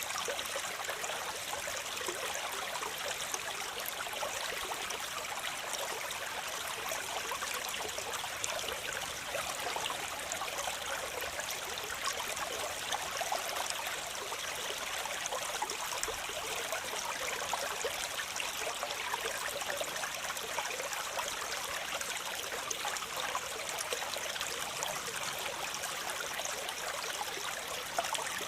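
Waterfall: water falling and splashing in a steady, even rush, with its sound mostly in the upper range and little low rumble.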